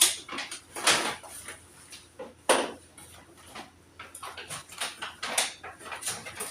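Hard objects clattering and knocking as things are handled and set down during sorting. The sharp knocks come irregularly, the loudest at the start, about a second in and about two and a half seconds in, with softer rattles between.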